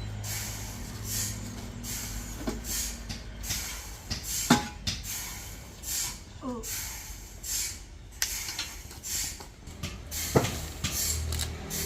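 Sawmill machinery: a low machine hum that dies away after a couple of seconds and comes back near the end, with irregular hissing bursts throughout and two sharp knocks, one near the middle and one near the end.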